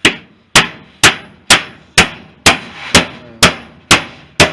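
Hammer driving nails into a wooden floorboard, a steady run of sharp strikes about two a second, each ringing briefly.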